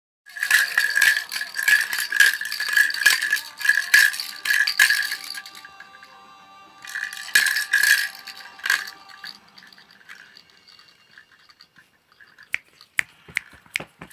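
A rattle shaken rapidly for about five seconds, then again briefly after a short pause, followed by a few separate sharp clicks near the end.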